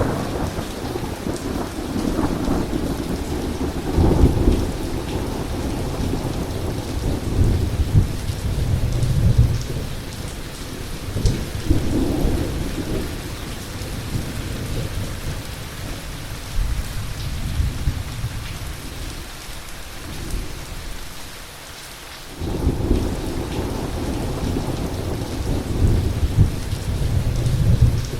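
Heavy rain pouring steadily with thunder rolling through it in long low rumbles. A sharper clap comes about four seconds in; the rumbling eases off around twenty seconds in and swells back up abruptly a couple of seconds later.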